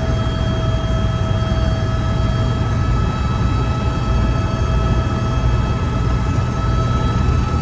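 Helicopter in flight: a steady, loud low drone with a few constant high whining tones over it.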